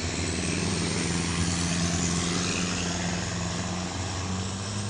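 A racing boat's engine running at a steady pitch over a wide hiss.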